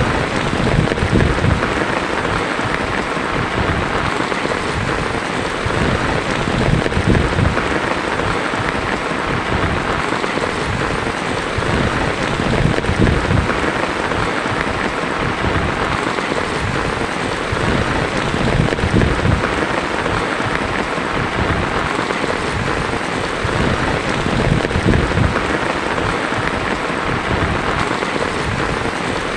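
Heavy rain drumming steadily on a tin roof, a dense even patter. A low roll of thunder dies away in the first moment.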